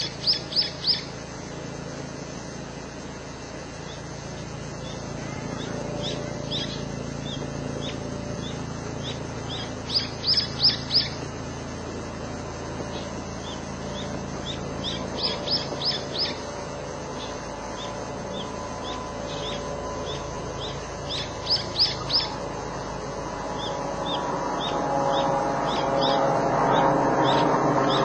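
A songbird singing: short phrases of four or five quick, sharp high notes repeated every several seconds, with single chirps in between. A steady low rumble of background traffic swells near the end.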